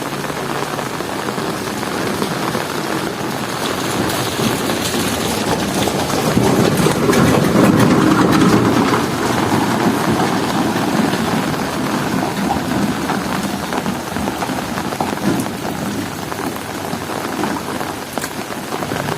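Heavy rain falling steadily, with a low rumble that swells and fades around the middle.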